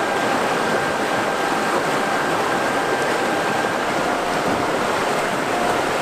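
Mountain river rushing steadily over rocks, an even wash of water noise.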